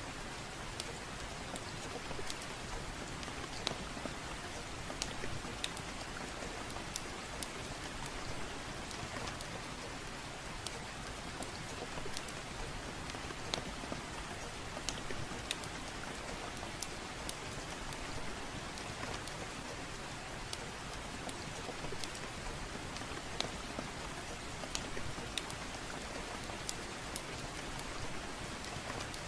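Steady soft rain with irregular sharp crackles from a wood fire, about one or two a second.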